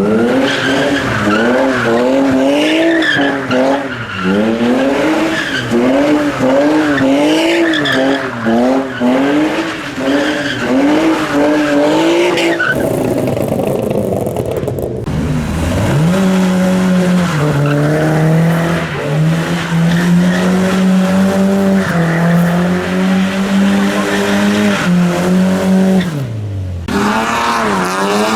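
Modified car's engine revved hard in quick repeated blips, then held at high revs for about ten seconds before dropping and climbing again near the end, with tyres squealing and skidding, as in a burnout or donuts.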